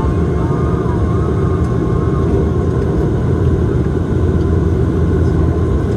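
Bombardier Dash 8-Q400 turboprop engines and propellers running steadily: a low rumble with a few steady tones above it.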